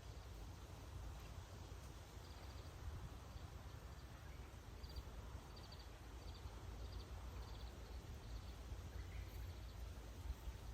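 Faint bird calls: a short high chirp repeated about twice a second for several seconds, over a low steady background rumble.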